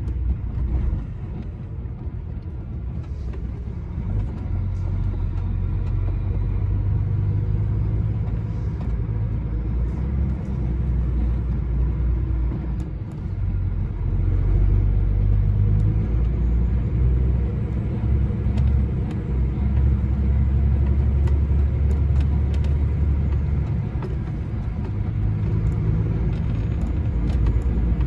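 Heavy goods vehicle's diesel engine and road rumble heard from inside the cab while driving: a steady low rumble that swells and eases with engine load.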